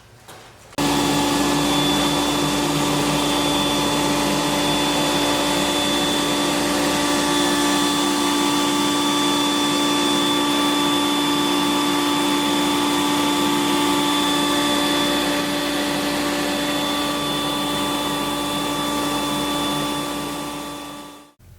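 Abrasive blast cabinet running: a loud steady hiss with a steady motor whine. It switches on about a second in and dies away near the end.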